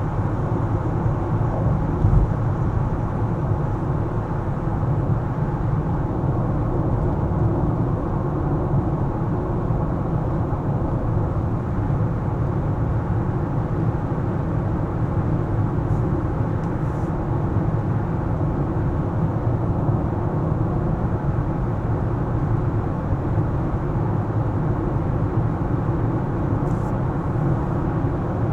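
A car driving through city streets: steady low rumble of tyres on the road and the engine, with a brief knock about two seconds in.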